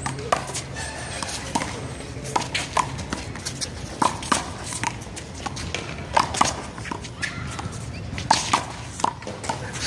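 Handball rally: the small rubber ball slapping off players' hands and the wall in a string of sharp smacks at irregular intervals.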